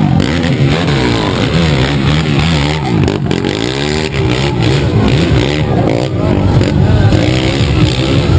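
Motorcycle engine running loud, its pitch rising and falling again and again as it revs.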